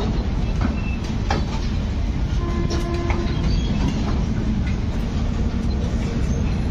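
Passenger train rolling slowly through a station, heard from the open coach doorway: a steady rumble of wheels on rails with occasional sharp clicks over the rail joints.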